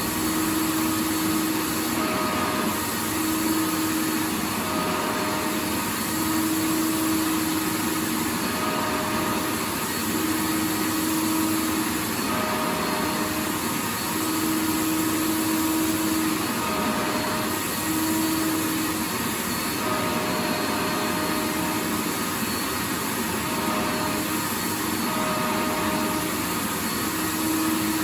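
Vacuum cleaner running steadily: an even rushing noise with a pitched motor hum that comes and goes every second or two.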